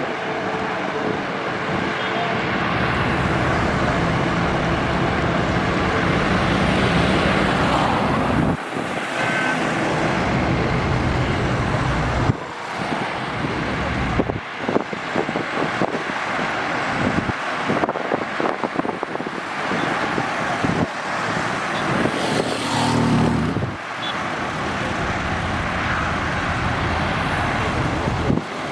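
Highway traffic passing close by: heavy trucks and other vehicles going past one after another, engine drone and tyre noise swelling and fading with each vehicle.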